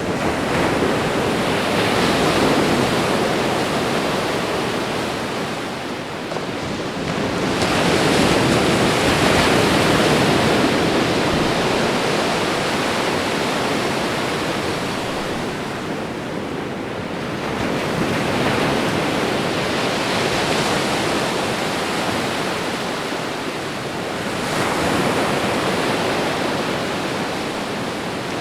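Ocean surf: waves breaking and washing up the shore in long surges that swell and fade about every eight seconds.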